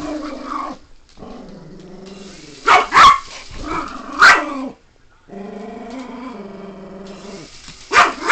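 A dog growling in long, steady stretches, breaking into loud barks: two about three seconds in, one just past four seconds, and another near the end.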